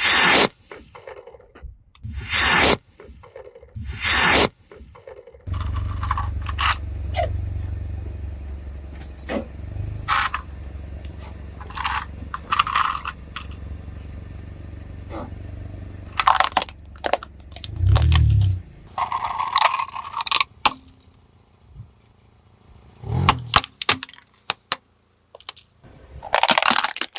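Car tyres running over plastic toys, with sharp cracks and crunches as the plastic breaks. A steady low rumble from the car runs through the middle stretch.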